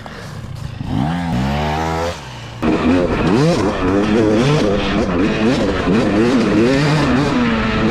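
Two-stroke dirt bike engine being ridden hard: the revs climb for about a second, drop off briefly, then come back loud, rising and falling again and again with the throttle.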